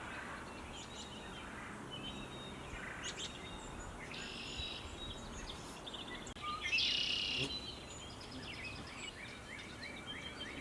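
Several small birds chirping and singing, with a rapid high trill about four seconds in and a louder one near seven seconds, and a run of short quick chirps near the end, over faint steady background noise.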